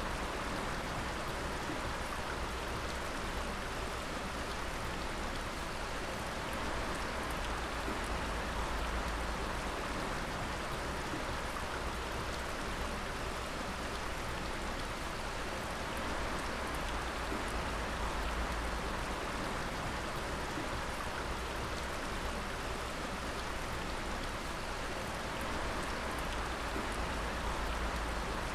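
Natural water dripping: many drops falling continuously, making a steady, even splashing hiss with no pauses.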